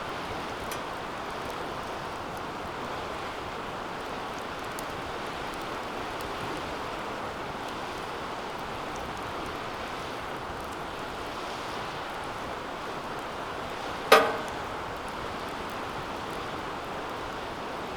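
Wood fire burning in a steel fire pit: a steady rush of flame with a few faint crackles. About 14 seconds in comes one loud, sharp metallic 'kan' with a short ring. This is the clanking of the heated steel fire pit, which the uploader warns it does quite a lot.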